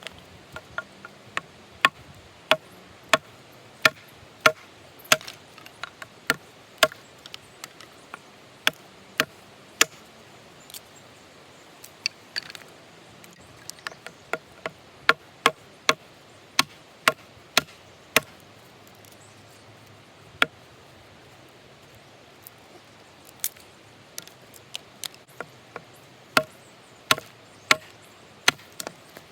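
A hatchet chopping wood: sharp, evenly spaced knocks of the blade biting into wood, about one every two-thirds of a second, in runs broken by short pauses.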